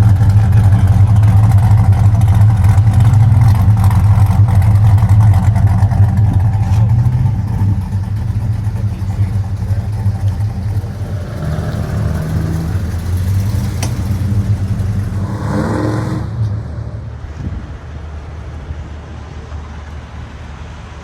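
Dodge Duster's 340 V8 rumbling at close range, then pulling away so it grows fainter. Near the end it revs briefly with a rising pitch, then drops off into the distance.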